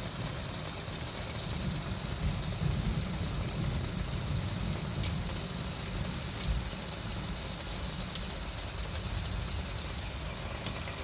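Heavy rain pouring, with a low rumble of thunder that swells about two seconds in and slowly dies away.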